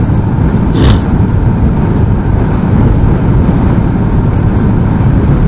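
Strong wind buffeting the microphone of a moving motorcycle, a steady low rumble with a short hiss about a second in.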